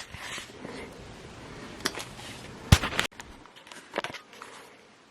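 A few scattered sharp clicks and knocks, the loudest a little before three seconds in, over a low background hiss.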